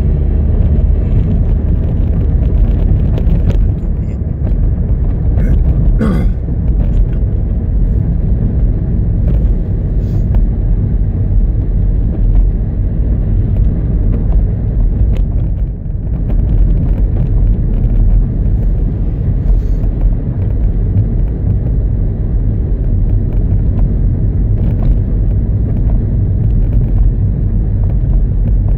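Opel ecoFLEX car's engine heard from inside the cabin as a heavy, steady low rumble, the revs easing slowly from about 2,000 to about 1,300 rpm.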